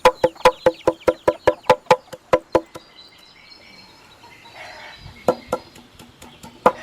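Knife chopping on a wooden board: fast, even strokes about four a second that stop a little before halfway, then a few single strokes near the end.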